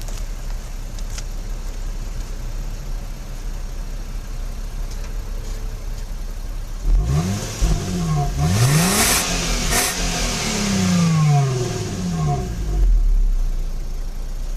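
Nissan VQ-series V6 on its stock exhaust, idling steadily, then free-revved several times from about halfway through, the engine speed rising and falling in quick blips toward about 5000 rpm before dropping back to idle near the end.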